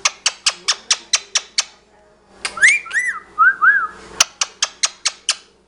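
A pet talking bird making a rapid series of sharp high clicks, about four or five a second, broken about halfway by a few short whistled notes that rise and fall, before the clicking resumes.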